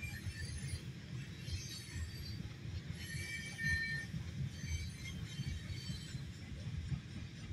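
Loaded CSX coal hopper cars rolling past: a steady low rumble, with short high-pitched squeals coming and going, the loudest about three and a half seconds in.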